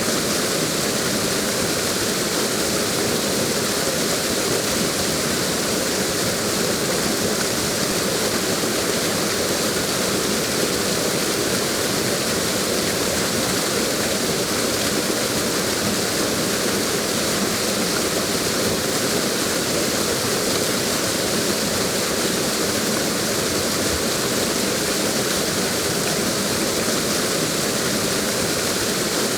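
Waterfall rushing steadily, a constant hiss of falling water that does not change.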